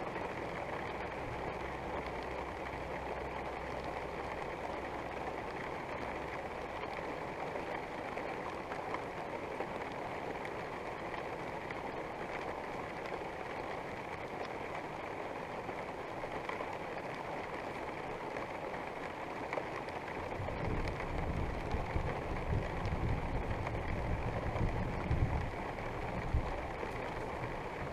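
Steady rain falling, with a spell of low rumbling about twenty seconds in that lasts several seconds.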